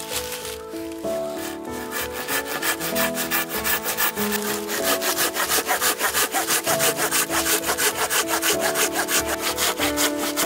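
Silky Tsurugi Curve 270 curved pull saw cutting through a piece of firewood in quick, even rasping strokes that grow louder over the first few seconds. Background music plays underneath.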